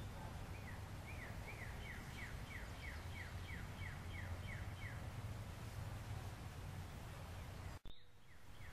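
A songbird singing a run of about a dozen quick falling notes, about three a second, over a steady low background rumble. The sound drops out for an instant near the end.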